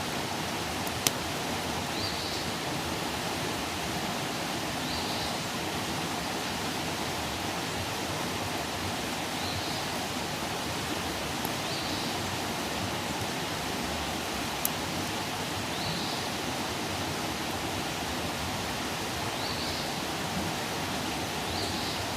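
Outdoor wood campfire burning with a steady hiss and rush, broken by a few sharp pops, the loudest about a second in. Faint short high chirps recur every couple of seconds.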